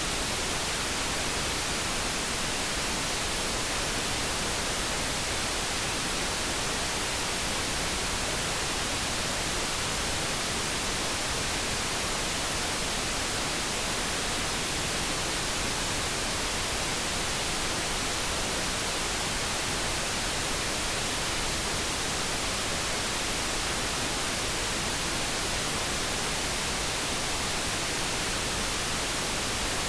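Steady synthetic light brown noise: an even, unchanging hiss with no tones or events.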